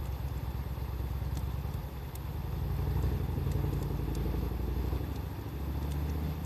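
Wood fire crackling, with a few sharp pops scattered through, over a louder steady low rumble that swells in the middle and shifts in pitch.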